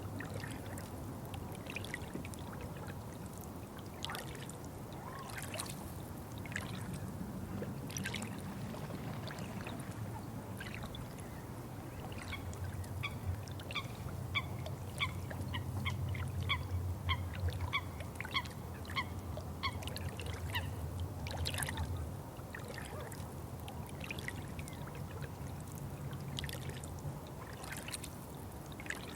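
Water trickling and dripping, with scattered sharp drips over a steady low rumble. Through the middle, a bird calls in a rapid series of short notes, about two or three a second.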